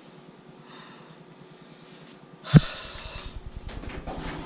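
A sudden knock about two and a half seconds in, followed by rustling and scraping.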